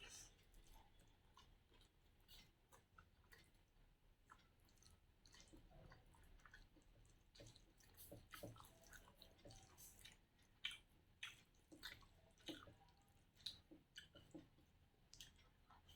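A person chewing food with faint wet mouth smacks and clicks, which grow more frequent about halfway through.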